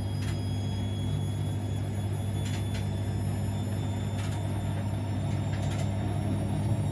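Siemens Extraklasse XLs 140 A front-loading washing machine running mid-wash on a 60°C cottons programme: a steady motor hum and rumble, with a few brief clicks.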